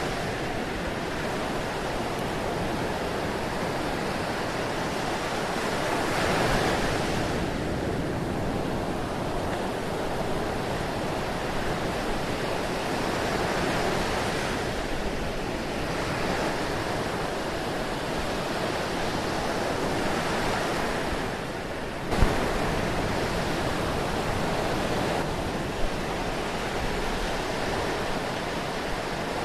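Ocean surf washing steadily, the noise swelling and easing as waves break. Two sharp clicks cut in about two-thirds of the way through, the first of them the loudest thing heard.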